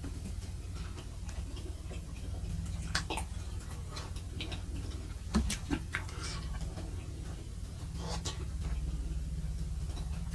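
A person chewing a tough mouthful of fried spleen slowly, close to the microphone: scattered wet mouth clicks and smacks over a low steady hum.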